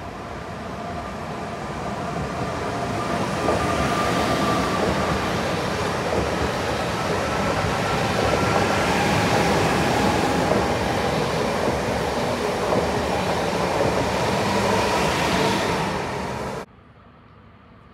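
EN78 electric multiple unit running along the platform: wheel and rail noise with a faint steady motor whine, growing louder over the first few seconds as the train comes close. It cuts off abruptly near the end.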